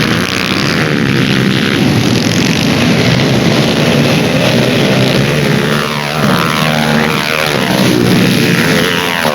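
Dirt bike engines revving hard, their pitch rising and falling with the throttle.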